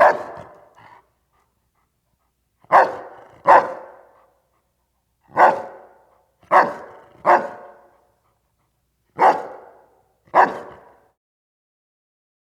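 A large dog barking: about eight loud, separate barks, some single and some in quick pairs, with gaps of a second or two between them. Each bark trails off briefly.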